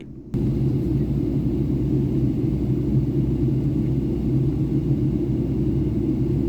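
Steady low rumble of a Boeing 757-200's cabin in flight on descent: engine and airflow noise heard from inside, with a few steady low hums, cutting in abruptly just after the start.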